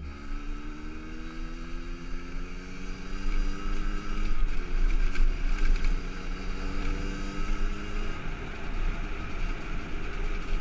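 50cc enduro motorcycle engine pulling along under way, its pitch climbing steadily for about eight seconds as it gains speed, then dropping. The engine is still in its break-in period. Wind rumbles heavily on the microphone.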